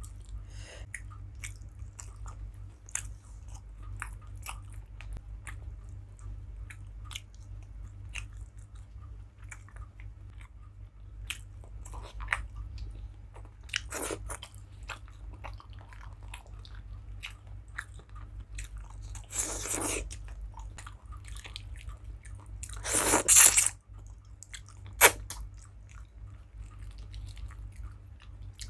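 Close-up mouth sounds of a person eating: chewing with many small wet clicks and a few louder crunches, the loudest about three-quarters of the way through. A steady low hum runs underneath.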